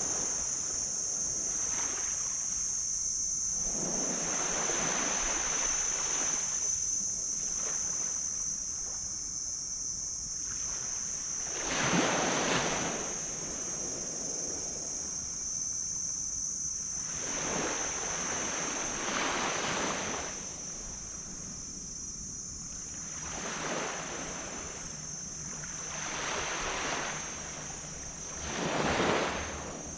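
Small waves breaking and washing up a beach in a series of swells every few seconds, the biggest about twelve seconds in and near the end. A steady high-pitched hiss runs underneath.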